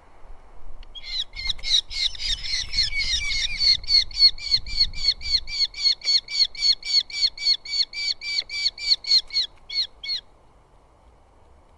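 Eurasian hobby giving a long, rapid series of repeated calls at about four a second for roughly nine seconds, then stopping suddenly.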